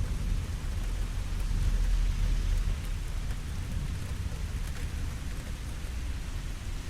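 Steady rainfall hissing, with a low rumble of thunder that swells about a second and a half in and eases off a second later.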